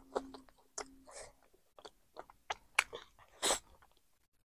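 A person chewing a mouthful of chicken curry and rice, with wet smacking and sharp mouth clicks and one longer, louder smack about three and a half seconds in.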